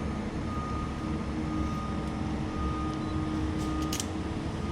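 Heavy machinery engine running steadily with a low rumble, a thin high whine held over it.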